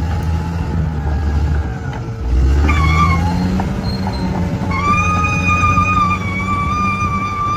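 Bulldozer diesel engine running with a steady low rumble. About five seconds in, a sustained high-pitched whine joins it and holds steady.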